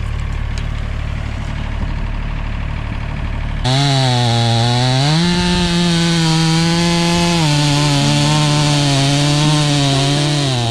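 Wood-Mizer LT50 band sawmill running. About four seconds in its sound jumps to a much louder, higher-pitched whine, which holds steady with a few small shifts in pitch.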